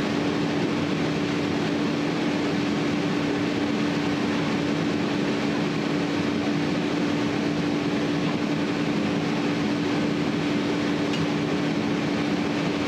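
Steady, unchanging hum: one constant low-mid tone over an even hiss, with no starts, stops or knocks.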